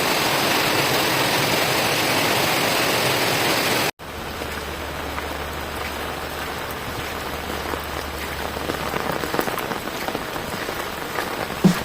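Steady rain falling, a dense even hiss for the first four seconds; after a sudden cut it continues quieter, with individual drops ticking.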